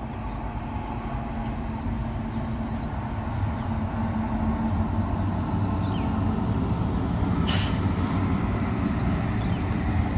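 WAG-9 electric locomotive hauling a freight train of open wagons, approaching and passing: a steady rumble of the locomotive and wagon wheels on the rails, growing louder. A brief sharp hiss comes about seven and a half seconds in.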